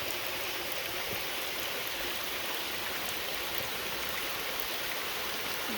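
Creek water rushing steadily, an even hiss of flowing water.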